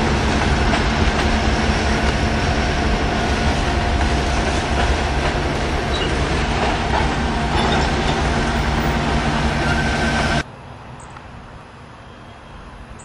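Train rolling along with a steady rumble and faint high ringing tones from the wheels. It cuts off suddenly about ten seconds in, leaving a much quieter background.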